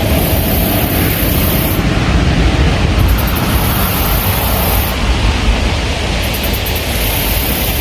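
Wind buffeting the microphone in a steady, gusting low rumble, over an even rush of water from the spillway.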